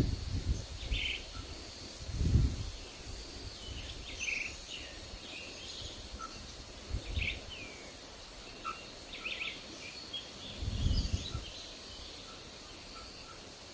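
Small forest birds chirping in short, scattered calls. Wind buffets the microphone in low rumbling gusts about 2, 7 and 11 seconds in.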